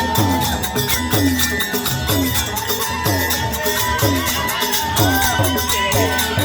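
Folk music on the alghoza, a paired double flute: one steady held tone drones under a gliding melody, over a regular drum beat and rattling percussion.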